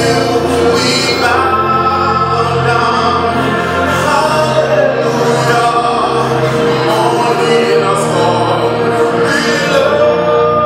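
Gospel worship song: a choir singing sustained lines over a steady instrumental backing.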